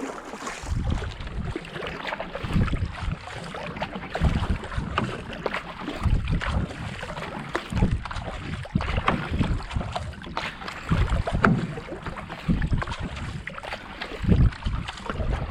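Racing kayak being paddled hard on flat canal water: the paddle blades dip and pull in a steady rhythm of a little over one stroke a second, about 70-80 strokes a minute, with wind rumbling on the microphone.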